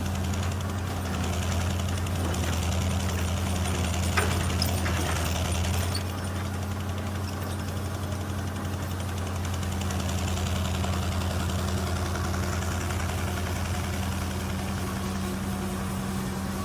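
Engine of an old piece of heavy equipment running steadily at idle, with a single sharp click about four seconds in.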